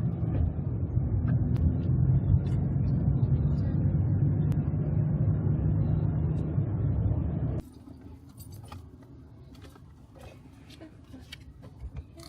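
Car engine and road noise while driving, a steady low drone. About seven and a half seconds in it cuts off abruptly to a much quieter background with scattered light clicks and ticks.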